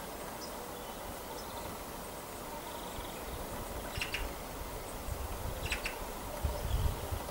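Faint short high-pitched bird calls from small garden songbirds, the clearest two about four and six seconds in, over a steady outdoor hiss. Low rumbles come in during the second half and are the loudest sound near the end.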